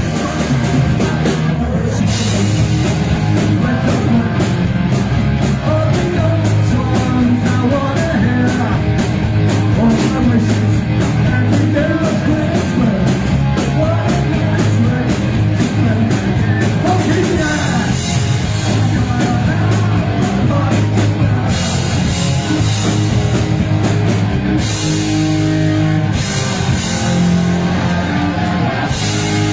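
Thrash-punk band playing live and loud: distorted guitars and bass over fast, driving drums, with sung vocals. The arrangement shifts about two-thirds of the way through.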